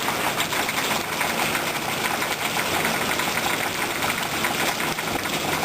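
Hail coming down hard: a dense, rapid, steady patter of hailstones striking surfaces.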